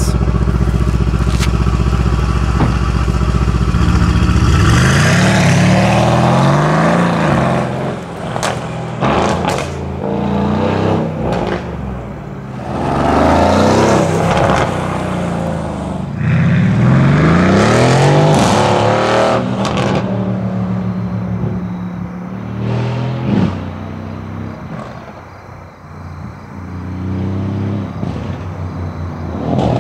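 Mercedes-AMG C63 S coupe's twin-turbo 4.0-litre V8, retuned and fitted with downpipes, idling and then pulling away hard in several rising pulls through the gears. Exhaust crackles come between the pulls as it shifts. The sound fades as the car drives off, then grows again near the end as it comes back.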